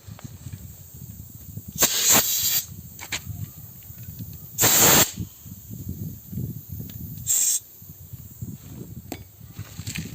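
Compressed air hissing from an air hose in three short blasts, about two and a half seconds apart, over a low rumble.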